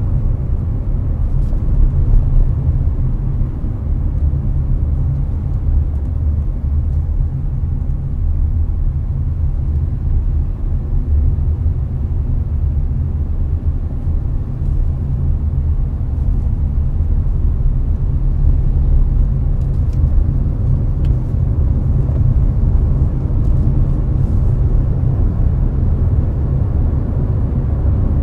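Steady in-cabin road noise of a Hyundai Avante cruising on a highway: a deep, even rumble of tyres and engine, with the air conditioner blowing.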